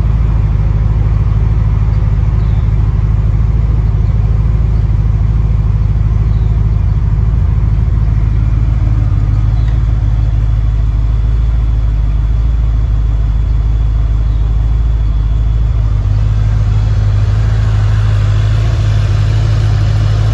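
Fox-body Ford Mustang engine idling steadily, running after sitting for two years; a little louder in the last few seconds.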